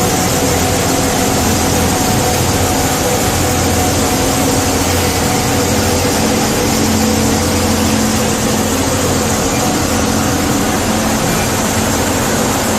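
Sawmill machinery running with a steady, loud mechanical drone and a hum of a few held tones.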